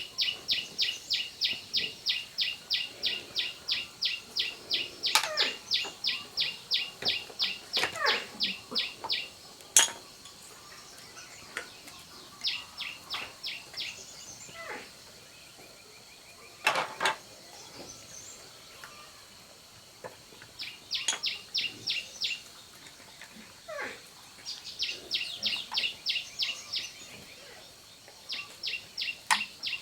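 Rapid, regular high-pitched chirping from a calling animal, about four chirps a second in bouts lasting several seconds, broken by pauses. A few sharp knocks sound between the bouts.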